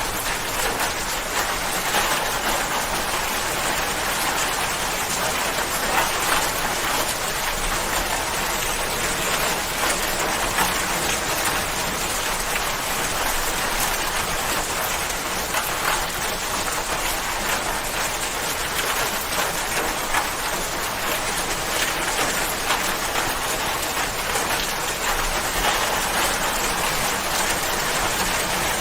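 Steady rain falling, a continuous hiss with many small drop impacts pattering through it.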